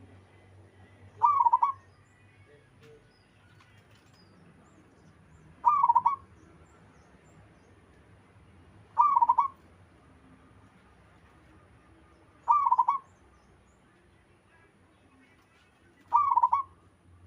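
Zebra dove (perkutut) cooing: five short coos about three and a half seconds apart.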